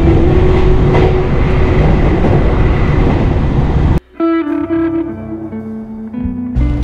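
Background music over the rumbling cabin noise of a running electric commuter train. About four seconds in, the train noise cuts off suddenly and the music carries on alone.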